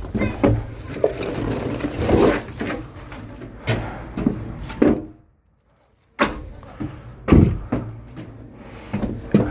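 Irregular knocks, clunks and rustling of objects being handled and set down, with a sudden gap of silence about halfway through.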